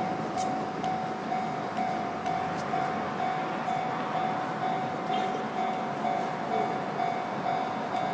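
Railway level-crossing bell on the Toden Arakawa Line ringing a steady, even ding about twice a second, over the rumble of the streetcar and the street.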